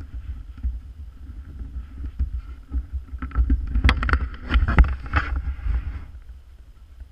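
ATV running over rough ground, with wind buffeting the action camera's microphone and a rumble throughout. A cluster of sharp knocks and rattles comes from about three to six seconds in.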